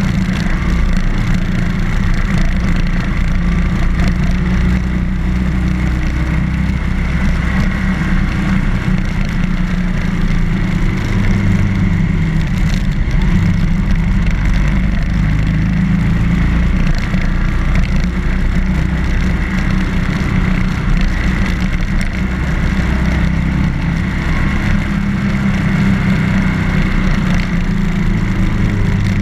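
BMW R1200GS boxer-twin motorcycle engine running steadily on the move. Its note shifts a little, over steady wind and road noise.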